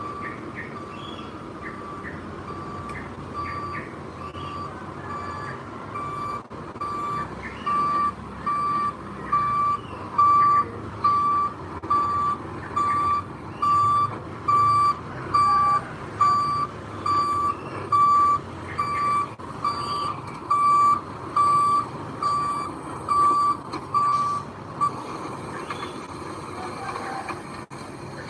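Backup alarm on a heavy construction vehicle beeping steadily, about once a second, over its diesel engine running; the beeps grow louder several seconds in and stop near the end, a sign the machine is reversing.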